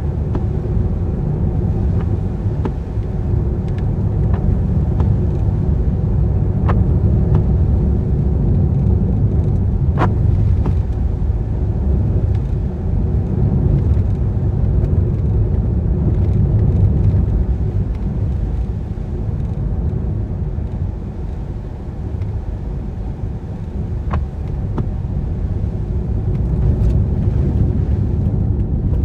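Car driving on wet roads in rain: a steady low rumble of tyres and engine, with a few faint clicks.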